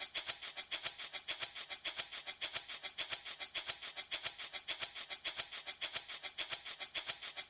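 Handmade baby rattle shaken in a fast, steady rhythm, several rattling shakes a second, its beads or pellets giving a bright, hissy sound.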